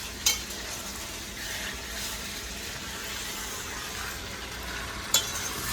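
Curry chicken back frying in a pot, a steady sizzle, with two sharp knocks of a utensil against the pot, one just after the start and one near the end.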